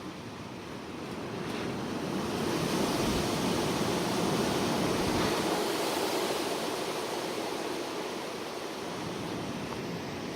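A strong gust of wind blowing: a rushing noise that builds about a second in, peaks midway and slowly eases toward the end.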